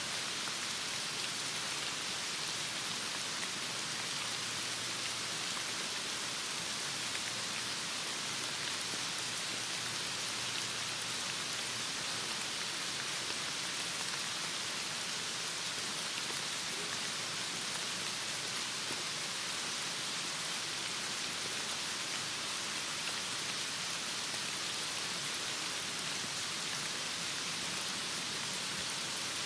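Heavy rain falling, a steady, even hiss that keeps on without a break.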